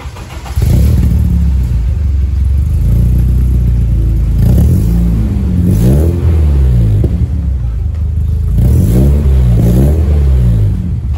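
BMW E36 engine running through a freshly installed stainless-steel exhaust with a new resonator and muffler, loud from about half a second in. It is revved twice, each rev rising and falling back to idle.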